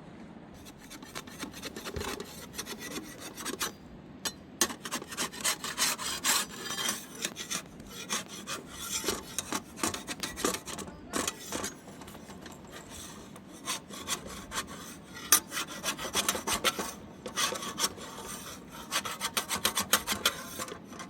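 Repeated rasping, scraping strokes of something rough being rubbed by hand, in quick runs with short pauses between them.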